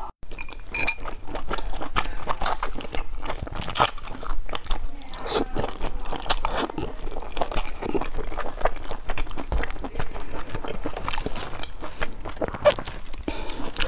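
Close-miked chewing of large soft steamed dumplings: a dense run of small wet mouth clicks and squishes as the mouthful is worked.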